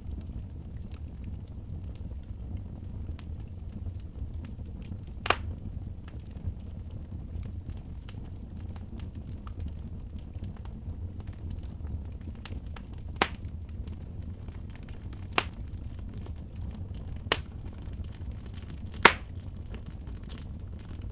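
Wood fire burning in a fireplace: a steady low rumble under a scatter of small crackles, with five sharp, loud pops, the last near the end being the loudest.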